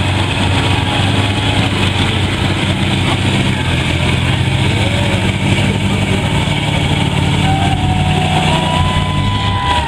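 Large off-road truck engine running loudly at a steady speed.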